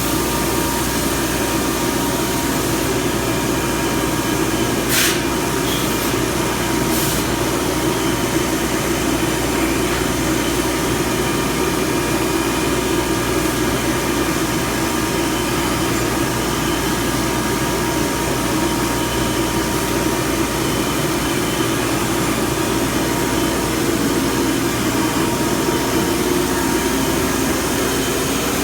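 Weeke BP12 CNC router running: a loud, steady machine noise with a hum. Two short hisses come about 5 and 7 seconds in.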